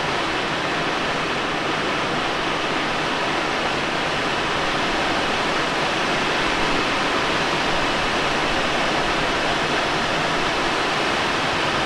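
Steady rush of air streaming past a Let L-13 Blaník glider in flight at about 90 km/h airspeed into a strong headwind: an even, unbroken noise with no engine.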